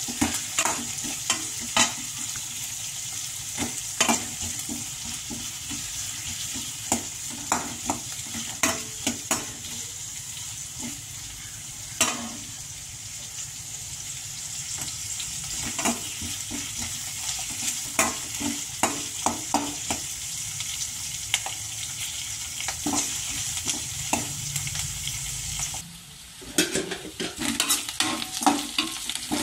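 Sliced onions, curry leaves and dried red chillies frying in oil in a stainless steel kadai: a steady sizzle, with a slotted steel spatula scraping and clinking against the pan as it stirs. Near the end the steady hiss drops away and the stirring clatter gets quicker.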